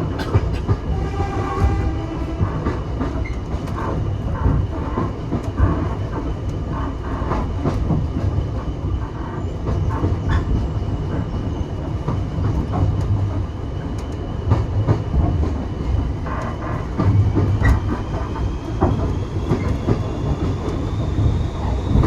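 Heritage railway carriage in motion, heard from inside: a steady low rumble of wheels on the track with frequent short clicks and knocks from the rail joints and bodywork. A faint thin whine runs under it and rises in pitch near the end.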